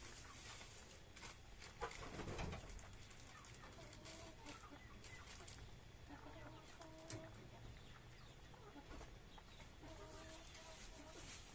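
Faint chickens clucking in the background, short scattered calls. There is a brief louder rustle or knock about two seconds in.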